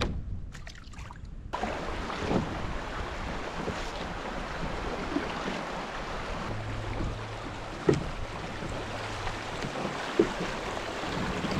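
Steady rushing noise of wind and moving river water around a kayak, starting suddenly about a second and a half in. Two sharp knocks come later on.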